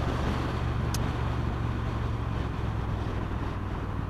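Motorcycle engine running steadily under way, with wind noise on the microphone; a single short click about a second in.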